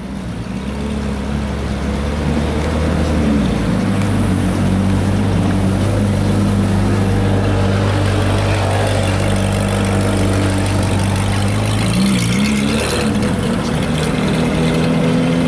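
A car engine running steadily at low revs, its pitch stepping up a little a few seconds in and dipping briefly about twelve seconds in.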